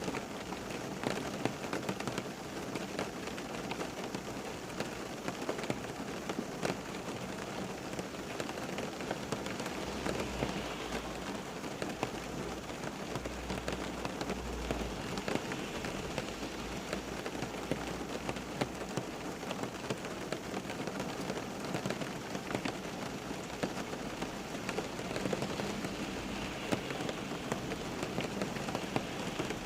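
Steady rain falling on a surface, a dense even patter of many drops, with a faint low rumble in the middle.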